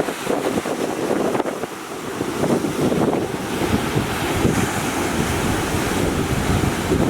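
Rough, storm-driven surf breaking and churning along the shore in strong typhoon wind, with wind buffeting the microphone.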